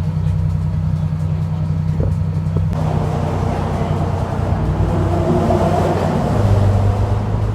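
Engine running at a steady low drone. About three seconds in, a broader rushing noise joins it and stays.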